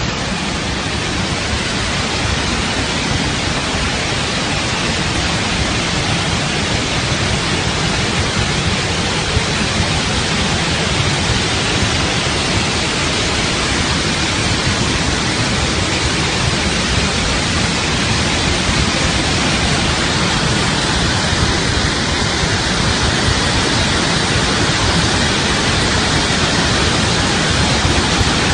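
Steady, loud rush of floodwater pouring through the open emergency spillway gates of Tarbela Dam, an even noise without breaks.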